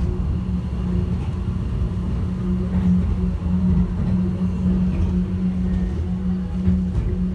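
Airport people-mover train running between stations, heard from inside the car: a steady low rumble with a steady motor hum.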